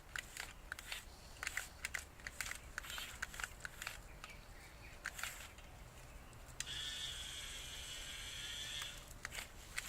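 Huina 1550 RC dump truck working in a garden: a run of small crunches and crackles, with a steady electric motor whine for about two seconds near the end.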